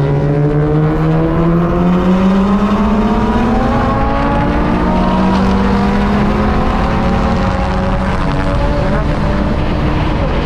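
Mitsubishi Lancer Evolution's turbocharged four-cylinder engine under hard acceleration. Its note rises over the first few seconds, drops back about four seconds in, then holds at a steadier pitch.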